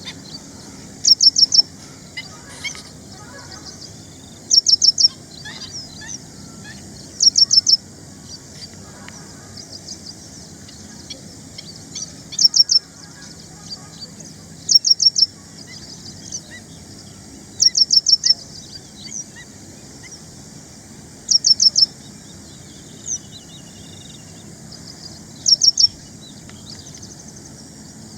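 Ashy prinia singing: a quick, high-pitched phrase of three to five repeated notes, given over and over at intervals of a few seconds. Fainter chirps from other birds come in between.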